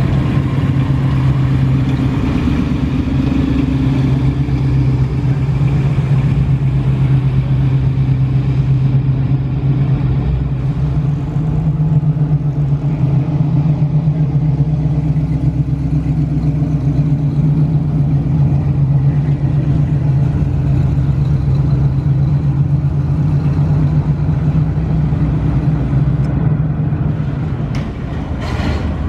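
A classic vehicle's engine running steadily at low speed, a deep even note that steps up slightly in pitch about twelve seconds in and drops away near the end.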